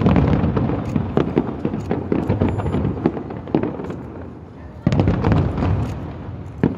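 Fireworks bursting overhead: dense crackling pops that fade away over about four seconds, then a second sudden loud burst about five seconds in, followed by more crackling.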